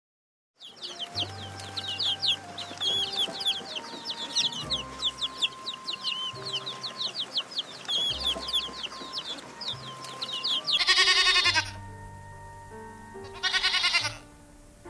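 Rapid, overlapping high-pitched chirps from small birds over soft background music, followed by two short, loud animal calls near the end.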